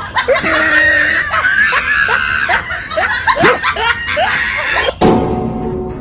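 Comic laughter sound effect: a quick run of short rising laughs, about three a second, over a steady high tone. About five seconds in it cuts abruptly to music.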